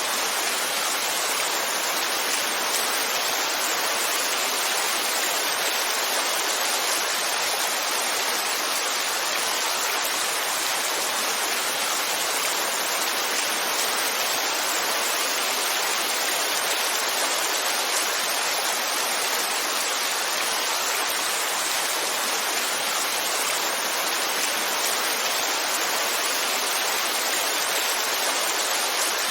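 Heavy rain falling steadily: a dense, even hiss with no single drops, thunder or changes standing out.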